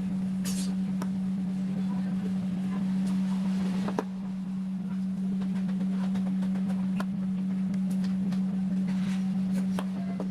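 Electric hair clipper or trimmer running with a steady hum, with scattered light clicks and one sharper click about four seconds in.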